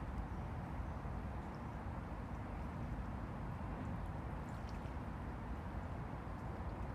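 Small river waves lapping at the bank in a steady low wash, with faint little splashes now and then.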